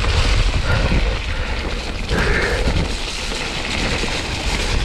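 Wind buffeting the microphone with a steady low rumble, over the hiss and rattle of a mountain bike rolling down a wet, muddy trail.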